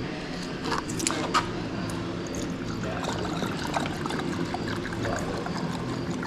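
Fuel system and tank cleaner being poured from its bottle into a car's fuel tank: a steady pour of liquid, with a few light clicks in the first second and a half.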